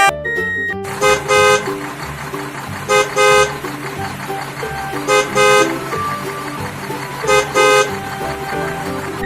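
A vehicle horn honking in quick double toots, four times about two seconds apart, over background music.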